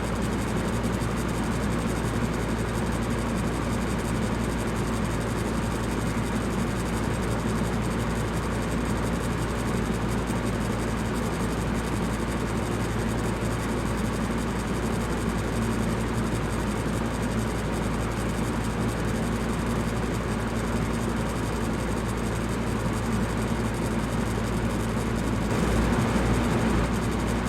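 Electric fan running steadily: an even rush of air over a low motor hum, swelling slightly in level for a second or two near the end.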